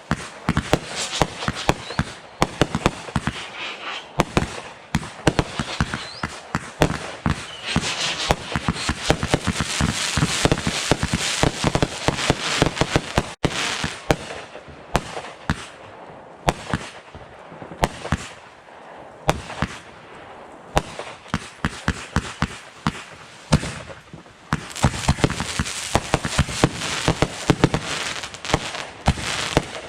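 Fireworks going off in rapid, dense volleys of cracks and bangs with a crackling haze between them, thinning for a while past the middle and then picking up again near the end.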